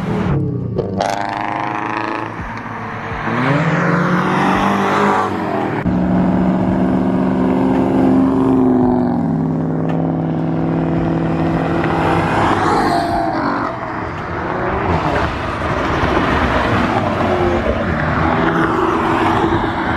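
Car engines accelerating away one after another, revving up and dropping in pitch as they shift gears.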